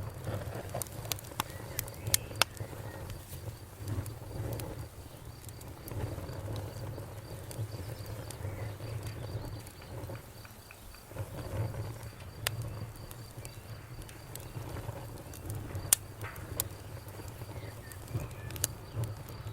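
Campfire burning: a low, uneven rush of flame with sharp crackles and pops scattered through it, the loudest pop about sixteen seconds in. A faint, rapid high-pitched pulsing runs steadily underneath.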